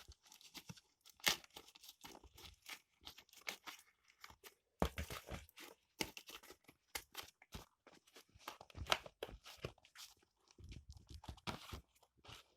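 Hair dryer's packaging being torn open and handled by hand: irregular tearing, rustling and sharp crackles, with a few louder rips along the way.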